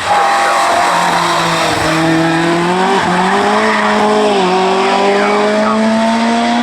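Hillclimb race car's engine running hard at high revs as it accelerates up the course. Its pitch climbs steadily and drops briefly twice, at gear changes.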